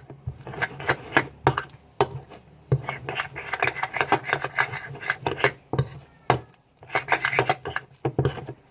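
A utensil scraping and clicking irregularly against a container as a slime mixture is stirred until it clumps.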